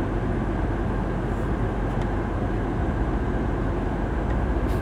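BMW X5 M Competition's twin-turbo V8 idling steadily, heard from inside the cabin as an even, low hum.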